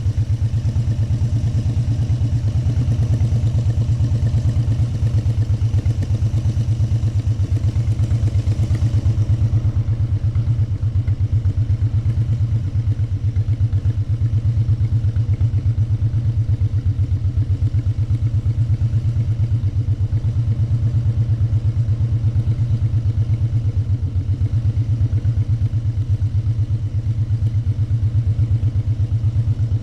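Motorcycle engine running at a steady pace while riding, a low, even pulsing exhaust note with no revving.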